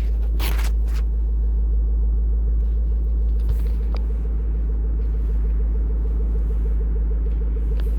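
2012 Shelby GT500's 5.4-litre supercharged V8 idling steadily, a deep even rumble heard from inside the cabin. A small click sounds about four seconds in.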